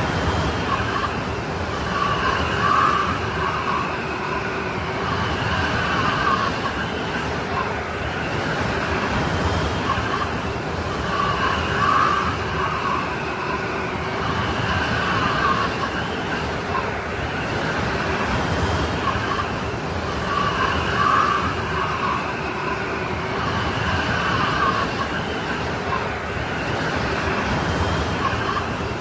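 Strong snowstorm wind blowing steadily with a howl, swelling in gusts about every three seconds.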